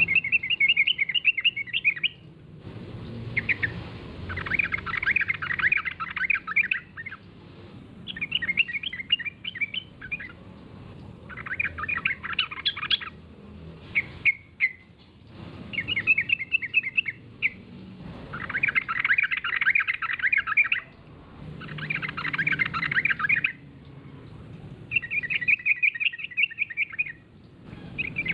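Yellow-vented bulbul (trucukan) singing over and over: short bursts of rapid, bubbly chattering notes, one phrase about every two seconds with brief pauses between.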